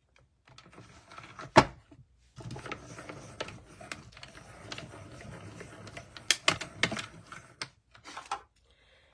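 A sharp knock about one and a half seconds in, then a hand-cranked die-cutting machine rolling the cutting plates and dies through, a continuous rough mechanical rattle with clicks lasting about five seconds.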